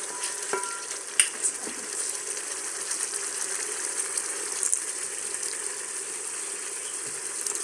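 Chicken pieces in tomato sauce and broth frying in a pan, a steady sizzle, with a sharp click about a second in.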